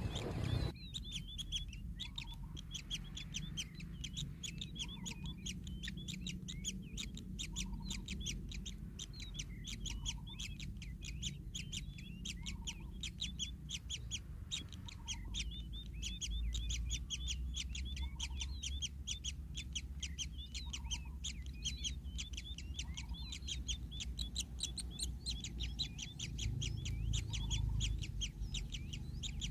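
A bird chirping: short high chirps repeated rapidly, about three to four a second, without a break. A faint low rumble runs underneath.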